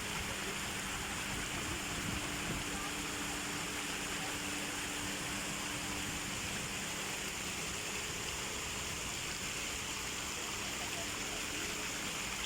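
Steady rush of running water, even and unbroken, with a faint low hum underneath.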